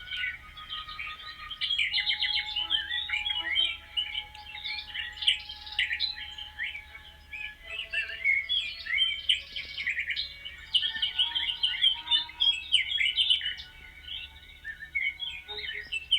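Dense chorus of many small songbirds chirping and twittering at once, with a few steady held tones underneath.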